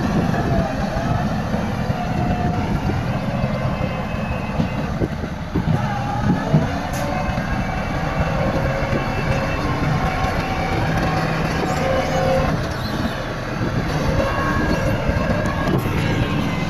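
Heavy earthmoving machinery at work: diesel engines running steadily under a mix of metallic squealing and clanking, like the tracks of a crawler bulldozer.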